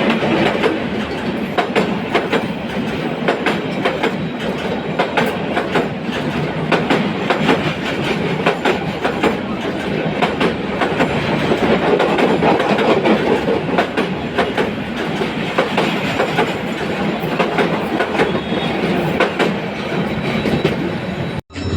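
Bangladesh Railway passenger train running on the track: a steady rumble of the cars with rapid clicks of the wheels over rail joints. The sound breaks off for an instant near the end.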